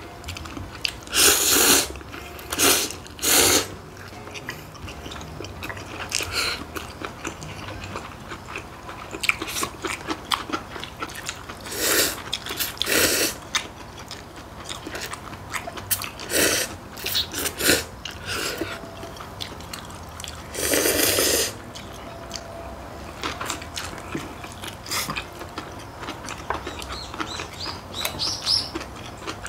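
Noodle slurping: instant ramyun noodles sucked up in a series of loud slurps, several in the first few seconds and the longest, about a second, two-thirds of the way through, with quieter chewing between them.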